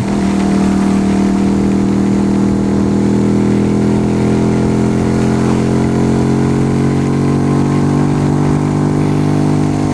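Yamaha YBR 125's single-cylinder four-stroke engine running at a steady, unchanging engine speed.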